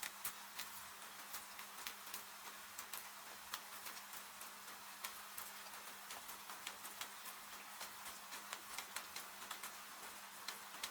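Wood fire crackling, with many irregular sharp pops and ticks, over a steady hiss of rain.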